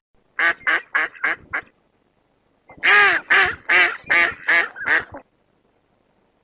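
Duck quacking: a run of five short quacks, then after a pause a louder run of six quacks.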